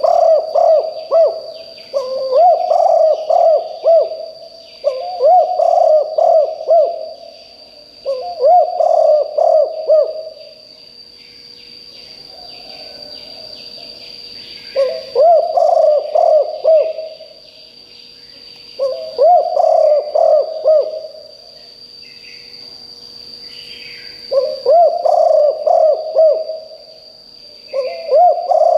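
Spotted dove cooing: a phrase of several quick, low cooing notes lasting about two seconds, repeated again and again with short pauses between phrases and a longer break about a third of the way in. Other birds chirp faintly in the background.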